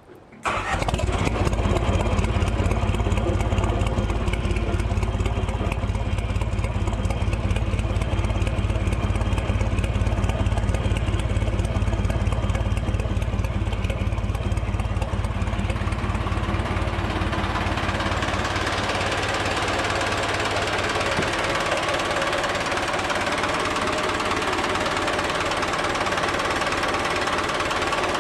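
Yamaha F.A.S.T26 boat's engine starting about half a second in and then running steadily with an even, rapid beat. Around two-thirds of the way through, the deep rumble fades and a higher clatter comes up.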